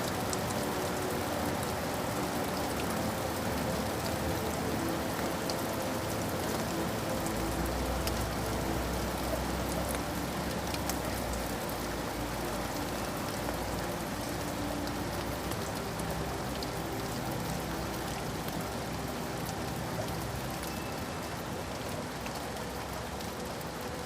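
Steady rain falling and pattering on surfaces, with individual drops ticking through the hiss. A faint low rumble comes in for a few seconds in the middle.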